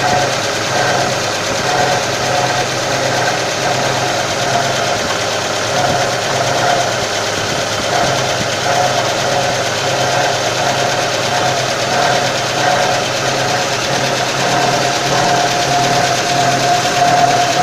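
GAZ-2410 Volga's ZMZ-402 inline-four engine idling, with a steady whine over the engine noise from a newly fitted Pramo water pump. The pump has been noisy since it was installed.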